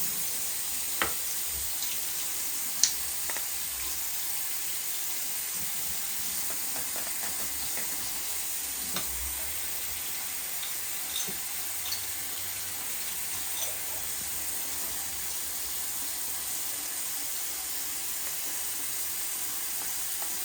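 Tap water running steadily into a sink as a boiler sight glass is brushed clean, with a few light clinks of the brush against the glass tube.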